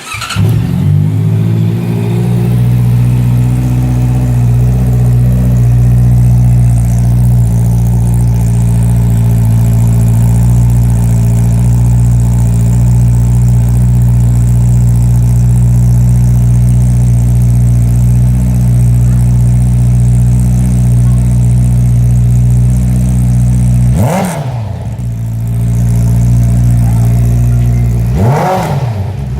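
A 2018 Honda CBR650F's inline-four engine with an Akrapovic exhaust starts up at once and idles steadily. It is revved briefly twice in the last few seconds.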